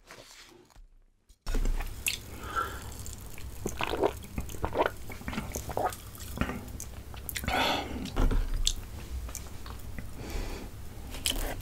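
Close-miked eating: irregular chewing and biting with wet mouth clicks and smacks, after a nearly silent first second and a half.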